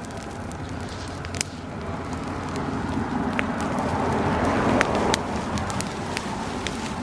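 Bonfire of dry grass burning, with sharp crackles and pops over a rushing of flame. The rushing swells over the first five seconds and then drops off suddenly.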